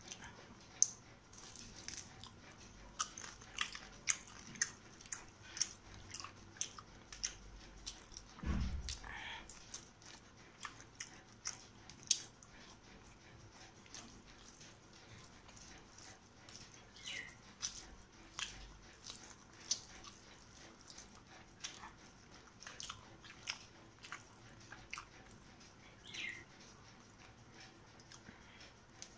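Close-up eating sounds: irregular crisp crunches and wet clicks of chewing, as a fried dried fish is bitten and eaten with rice by hand.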